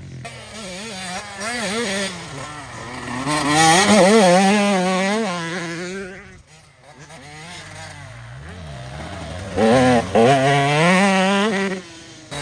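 Dirt bike engines revving up and down under throttle, getting louder about four seconds in, fading to a low point in the middle, and getting loud again around ten seconds.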